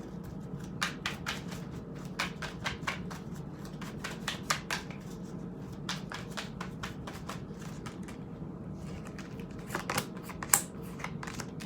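Tarot cards being shuffled and handled: a run of quick clicks and flicks from the card edges, thickest in the first few seconds, then sparser, with a few sharper ones near the end.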